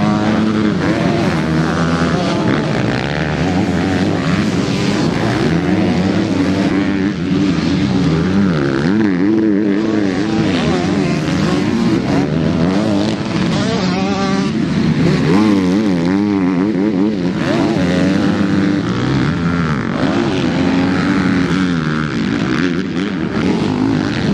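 Several MX2 motocross bikes racing past, their engines revving up and down together as the riders throttle through the track.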